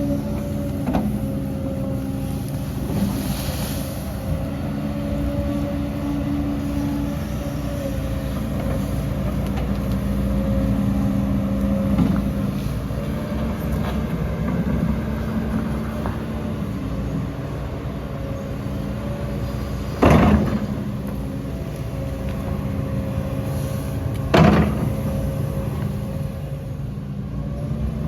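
Diesel engine of heavy earthmoving machinery running steadily, its pitch shifting a little as it works. Two loud bangs come about twenty seconds in and again about four seconds later.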